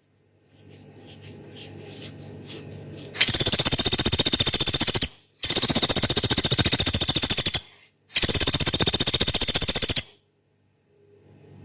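Pelatuk beras, a small pygmy woodpecker (Dendrocopos nanus), giving three long, rapid, rough rattling trills of about two seconds each, with short breaks between them.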